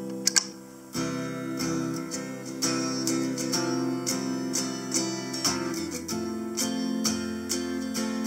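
Guitar chords strummed through a Harley Benton DNAfx GiT multi-effects processor preset, in a clean tone heard as acoustic-like. Two sharp clicks come just after the start, followed by a brief quieter stretch, and steady strumming resumes about a second in.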